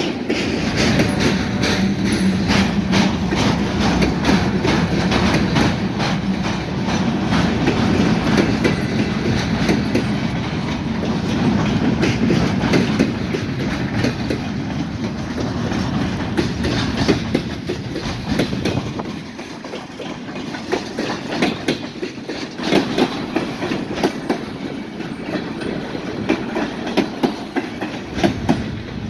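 Freight train cars rolling past, wheels clicking rapidly and steadily over rail joints with a rumbling roll underneath. The low rumble eases somewhat about two-thirds of the way through.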